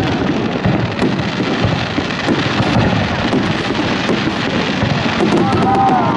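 Aerial fireworks display: a dense, continuous crackle of bursting shells over low rumbling booms.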